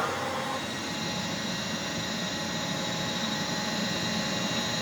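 Gas forge burner running with a steady, even hiss and a few faint steady tones, heating the steel for forge welding.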